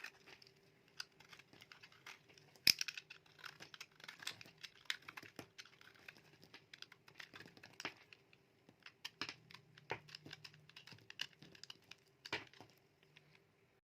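Knife cutting through dry bar soap: a dense run of crisp, irregular crackling ticks, with one sharper snap about three seconds in, thinning out and stopping shortly before the end.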